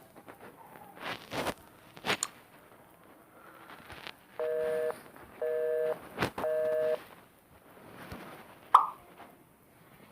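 Telephone busy signal: three evenly spaced beeps of two steady tones sounding together, each just over half a second long. Before them come a couple of short noisy swells and clicks, and a single sharp hit sounds near the end.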